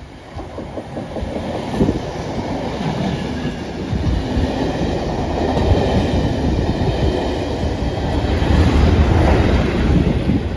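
A test train passing close at speed: steel wheels clattering over the rails and coaches rushing by, building steadily. The rear Class 37 diesel locomotive's English Electric engine adds a deep rumble, loudest near the end as it goes past.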